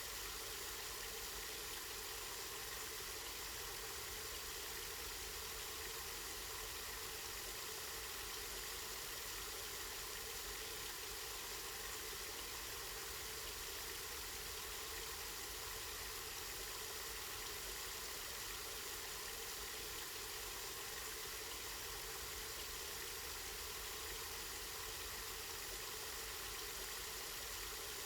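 Water from a spring running steadily, a constant rushing trickle that does not change.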